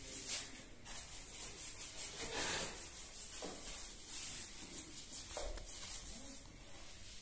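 Repeated rubbing strokes of a tool worked by hand over a wall surface during renovation work, a dry hissing scrape with each stroke.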